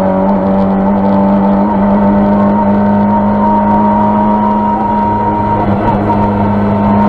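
Rally car's engine pulling at high, nearly steady revs, heard from inside the cabin, its note holding almost level throughout.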